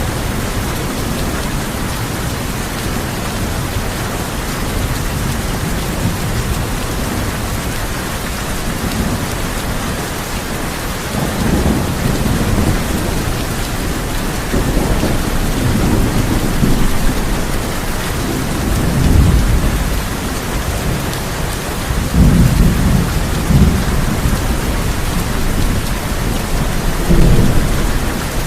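Steady heavy rain drumming on a tin roof, with thunder rumbling low in several rolling waves from about a third of the way in.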